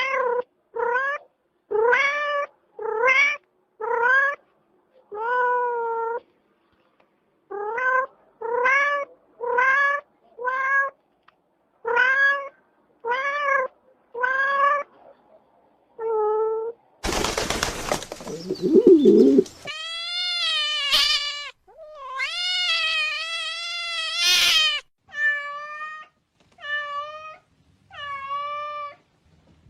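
A cat meowing over and over, short rising calls about one a second. About halfway through there is a harsh noisy burst, and then a further run of longer meows.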